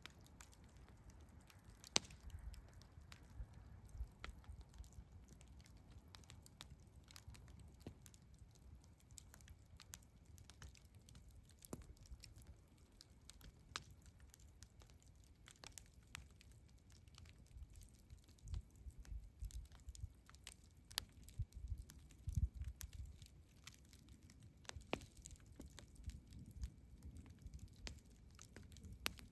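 Campfire crackling faintly: scattered sharp snaps and pops from the burning wood over a soft low rumble, with a louder pop about two seconds in.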